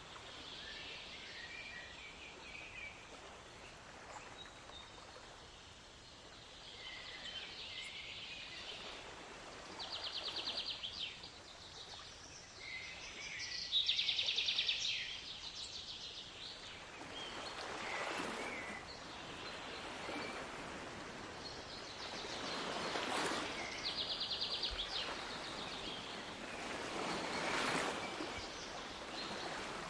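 Songbirds chirping and trilling in fast runs of repeated notes over a steady wash of water, with three waves surging in and falling back in the second half.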